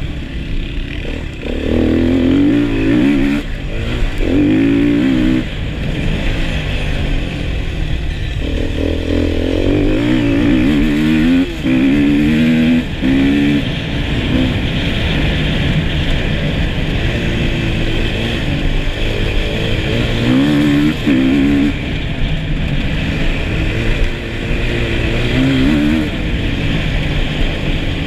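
Enduro motorcycle's engine heard from on board while riding, its revs rising and falling over and over as the throttle is opened and closed, with a few brief drops in level.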